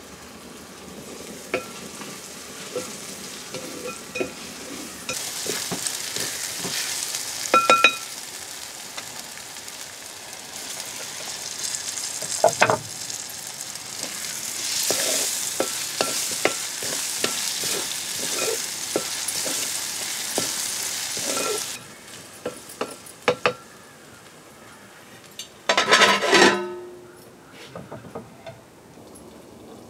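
Kingfish pieces and tomatoes sizzling as they fry in a metal pot, with a metal ladle scraping and knocking against the pot as they are stirred. Near the end a metal lid clangs down onto the pot and rings briefly.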